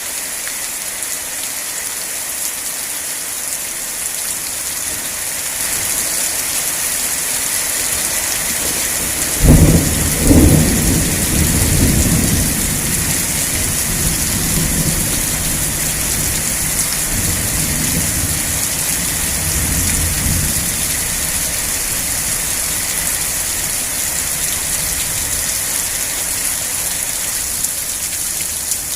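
Steady heavy rain with a thunderclap about nine and a half seconds in, a sharp crack and then a low rumble that rolls on for about ten seconds before fading.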